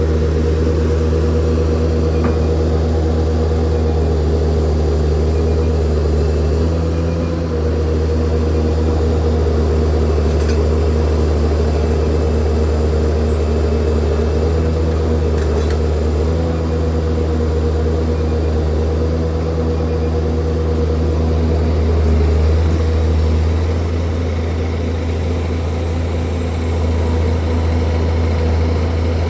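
Diesel engine of heavy earthmoving machinery running steadily at a constant speed, its pitch shifting slightly a few times.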